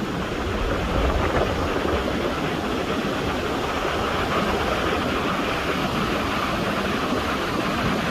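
Tropical-storm wind and heavy rain: a steady rushing noise, with wind buffeting the microphone in low rumbles.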